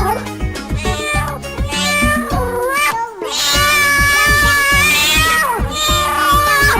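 Domestic cat meowing several times, including one long drawn-out meow in the middle, over background music with a steady beat.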